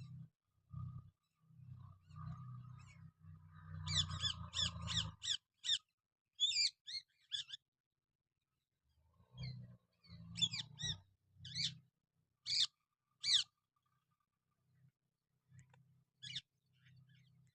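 Parrot calling in short, sharp screeches: a quick run of about five near four seconds in, more between about ten and thirteen seconds, and a few single calls near the end, over a low on-and-off rumble.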